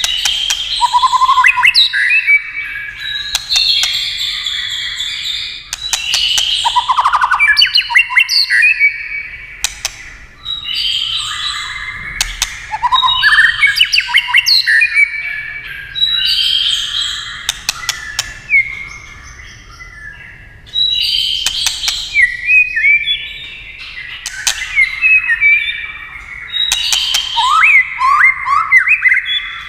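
White-rumped shama singing at length: rich, varied whistled phrases with sweeping and warbling notes, broken up by short gaps and sharp clicking 'tchack' calls.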